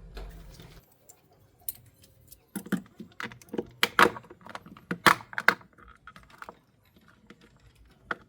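Irregular sharp clicks and knocks of small hard objects being handled, loudest about four and five seconds in, with a low hum that stops under a second in.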